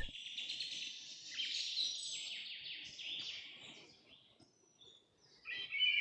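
Songbirds chirping and trilling in a high register, fading away about four seconds in, then a short louder burst of chirps near the end.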